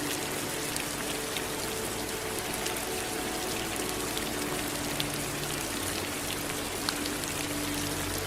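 Steady rain, a dense hiss of falling rain with many separate drops ticking on a surface. Faint low steady tones hum underneath, shifting now and then.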